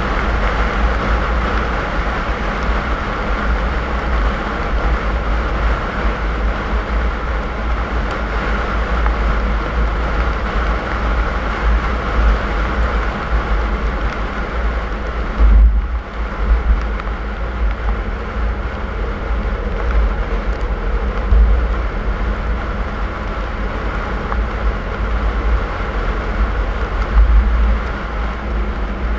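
Car driving: a steady rumble of road and engine noise, with a brief low thump a little over halfway through and a couple of smaller jolts later.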